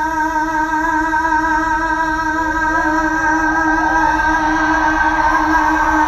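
Live band music: steady held chords, with gliding sung or played notes coming in after about two seconds.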